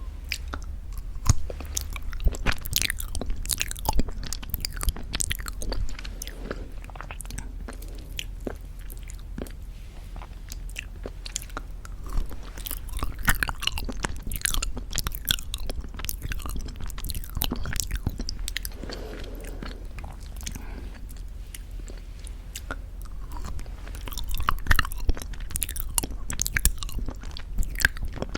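Close-miked mouth sounds of eating very thick Greek yogurt with honey: many wet, sticky smacks and clicks that come in clusters with short lulls between mouthfuls.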